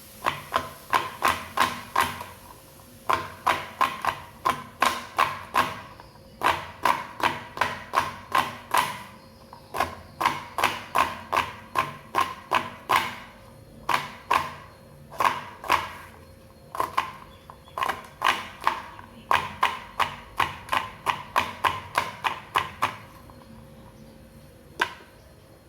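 Knife chopping vegetables finely on a cutting board: quick, regular strokes about three a second, in runs broken by short pauses. The strokes stop about 23 seconds in, with one last stroke near the end.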